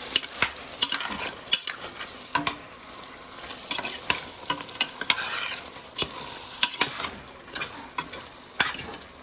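Chicken wings in curry sizzling in a pot on turned-down heat, sweating out their juice, while a spoon stirs them, scraping and knocking against the pot at irregular moments.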